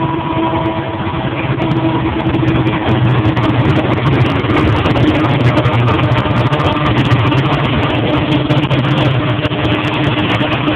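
Union Pacific diesel freight locomotives passing close by, engines running with a steady low drone, followed by freight cars rolling past with wheels rumbling and clicking on the rails.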